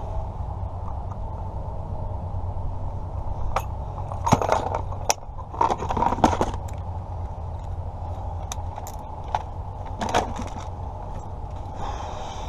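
Keys and small metal lock parts clinking and clicking as they are handled, in short clusters about four to six seconds in and again near ten seconds, over a steady low hum.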